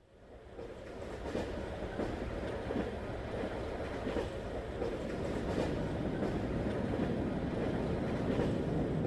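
Train running along the rails, its noise swelling in over about the first second and then holding steady, with a faint clatter of wheels over the track.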